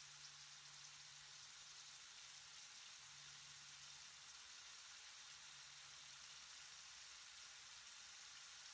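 Faint, steady sizzle of diced carrots, corn and peas frying in melted butter in a steel wok.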